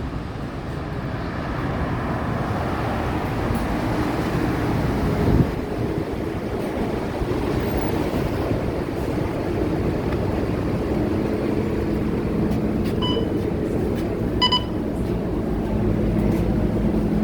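Scania K230UB bus's 9-litre five-cylinder diesel running as the bus is driven, a steady drone with road noise and a brief thump about a third of the way in. Two short electronic beeps sound about a second and a half apart near the end.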